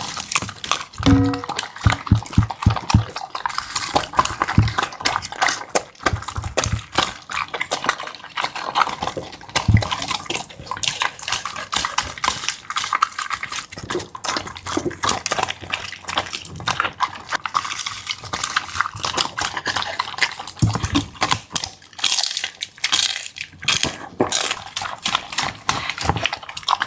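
Dog eating close to the microphone: rapid wet chewing, smacking and lapping clicks, with a few low knocks about a second or two in.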